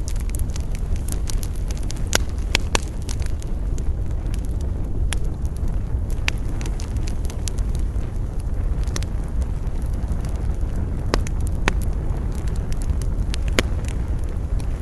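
Campfire crackling, with sharp pops scattered through it, several louder ones about two seconds in and again near the end, over a steady low rumble of wind.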